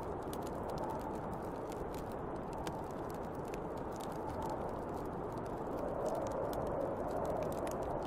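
Snowstorm wind blowing in gusts, easing in the middle and swelling again about six seconds in, with a fire crackling in small scattered pops over it.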